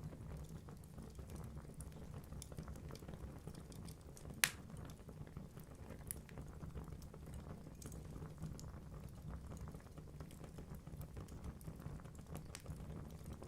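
Log fire burning in a fireplace: a steady low rumble of flames with frequent small crackles, and one loud sharp pop about four and a half seconds in.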